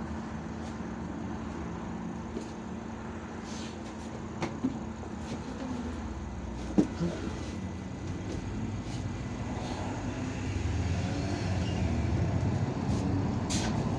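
IVECO Urbanway 18M articulated city bus heard from inside while driving: a steady engine and road hum with a few sharp rattling knocks about 4 to 7 seconds in. The hum grows louder for the last few seconds.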